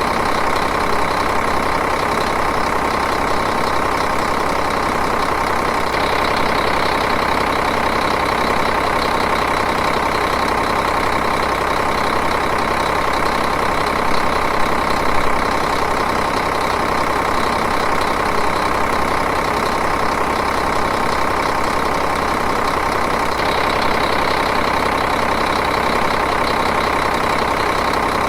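Diesel engine idling steadily, with an even, unchanging running sound and a brief slight rise in level about halfway through.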